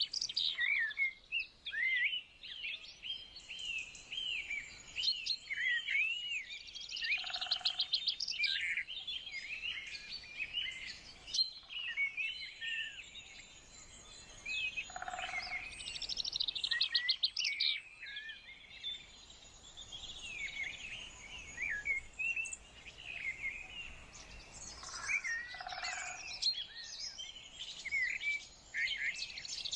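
Several birds chirping and singing at once, short overlapping calls and glides, with rapid trills a few times. A lower, shorter sound comes three times, several seconds apart.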